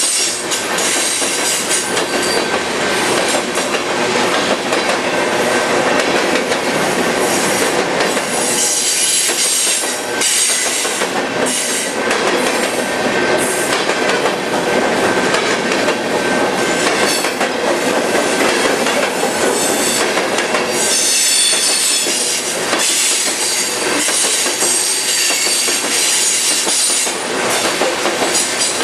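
Freight train of covered hopper cars rolling past close by: a steady loud clatter of wheels on rail. High-pitched wheel squeal comes and goes.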